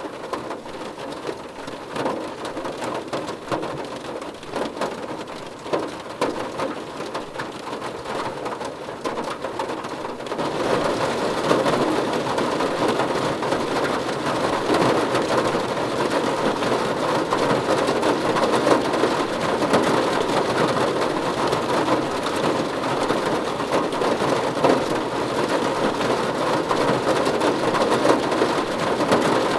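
Steady heavy rain, drops pattering on a surface. About ten seconds in it steps up to a denser, louder downpour.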